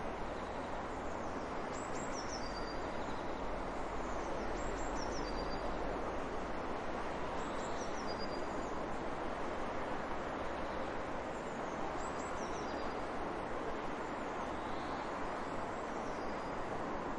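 Steady rushing background noise with a bird calling over it, repeating a short, high, falling run of notes about every three seconds.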